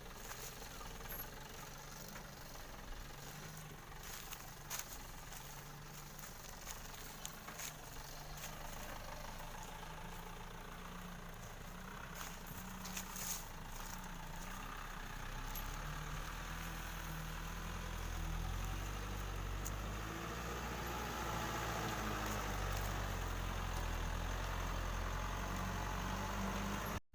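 Engine of a truck loaded with sugarcane running with a steady low hum, growing louder from about halfway and then holding steady, with scattered light clicks. It cuts off suddenly at the very end.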